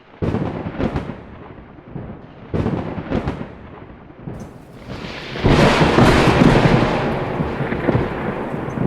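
Thunder: two sharp cracks near the start and two more about three seconds in, then a long, loud rumble from about five seconds in.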